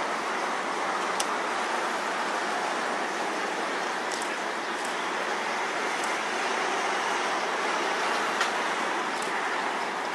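Steady outdoor rushing noise, with a few faint clicks.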